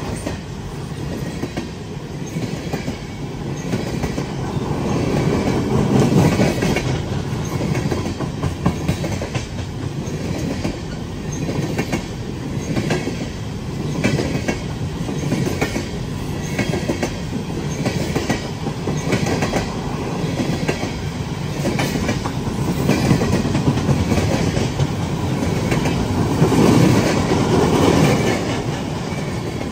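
Empty open-top coal hopper cars rolling past close by: a steady rumble of steel wheels on rail, with a continuous clickety-clack of wheels passing over rail joints.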